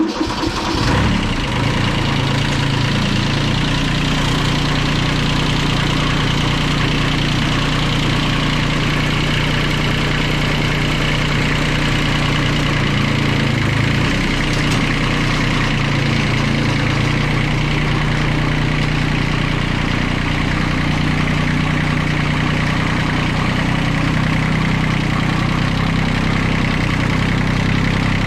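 Small Kubota tractor's diesel engine starting from cold after its glow plugs have been heated: it catches suddenly and runs rough for a moment, then settles into a steady idle.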